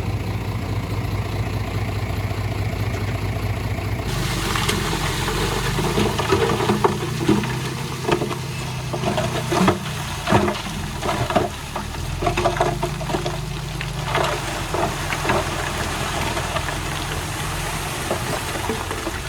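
Diesel engine of heavy earthmoving machinery running steadily. About four seconds in, the sound changes abruptly to the engine under way with a run of irregular clanks and knocks, like stone and metal rattling.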